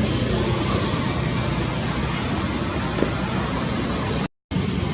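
Steady background rumble and hiss, cutting out briefly near the end.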